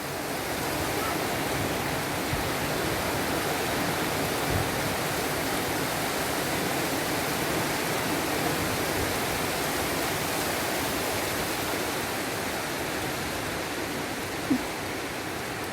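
Heavy downpour of rain: a steady, even hiss that holds unchanged throughout.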